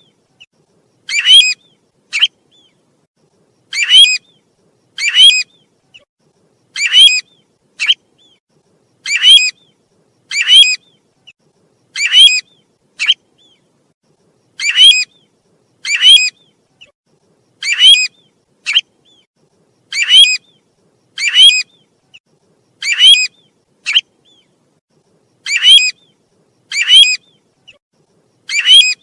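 Calls of the bird known in Vietnamese as tu huýt, played as a lure for trapping: short, sharp high calls in pairs, a pair about every three seconds, repeating evenly with now and then a faint short note after a pair.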